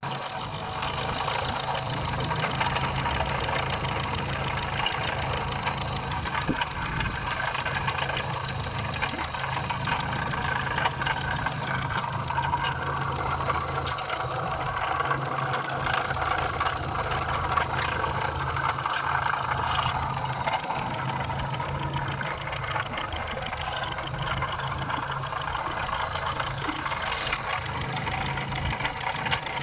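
Car engine idling steadily with an extraneous noise, a fast, even ticking over the engine's hum, whose cause the owner does not know.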